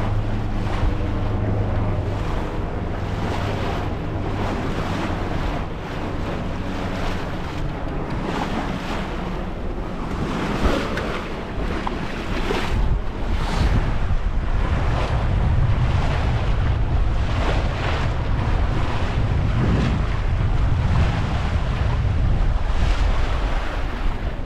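Wind buffeting the microphone and water rushing along a sailing yacht's hull as it sails through a small swell, in gentle surges. A low steady hum fades out about two seconds in.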